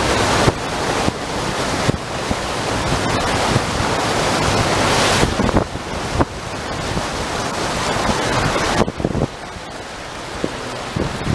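Wind buffeting the microphone in gusts, a loud, dense rushing noise that eases off sharply about nine seconds in.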